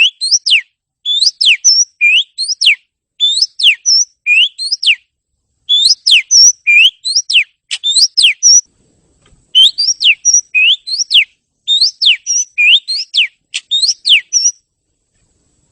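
Oriental magpie-robin (kacer) song: loud, clear whistled phrases, each a quick run of three or four downward-sweeping notes, repeated about once a second with a short break partway through. The song stops shortly before the end.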